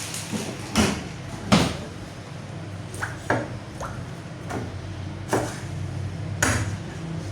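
About seven irregular knocks and clacks, spaced unevenly, over a steady low machine hum.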